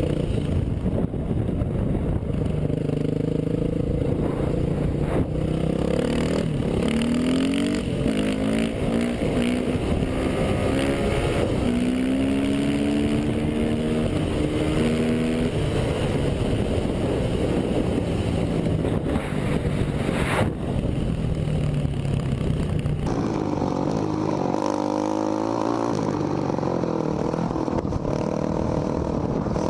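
Motorcycle engines, most likely dirt bikes, running at speed: the pitch climbs and drops again and again as they rev through the gears, over a heavy low rumble. The sound changes abruptly about 23 seconds in, where the engine pitch sweeps up and down again.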